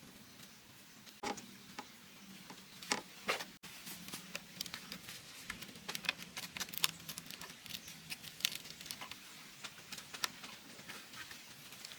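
Irregular light tapping and clicking, with a few louder knocks in the first few seconds followed by a rapid scatter of small clicks.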